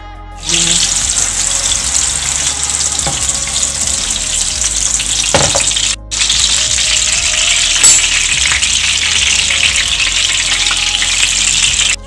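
Meat kababs shallow-frying in hot oil in a pan: a steady, loud sizzle. It starts abruptly about half a second in and breaks off for an instant about halfway through.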